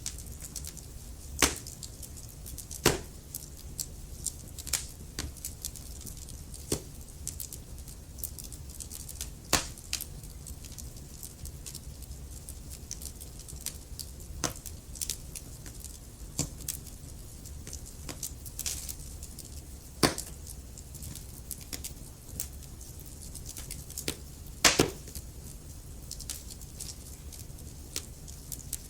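Wood fire burning in a fireplace, logs crackling with irregular sharp pops over a soft steady rumble of the flames; the loudest pops come about 1.5, 3, 9.5, 20 and 25 seconds in.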